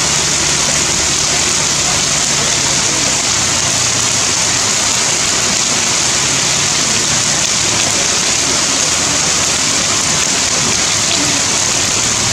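Heavy rain falling steadily, a dense, even hiss of drops on leaves and ground.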